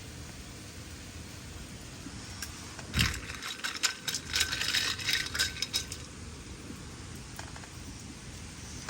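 Clattering and clinking of camp tableware, a quick run of sharp knocks and clinks lasting about three seconds, starting a few seconds in.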